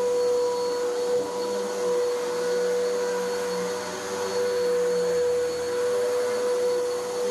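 Vacuum cleaner running steadily over carpet, a constant motor whine over the rush of air.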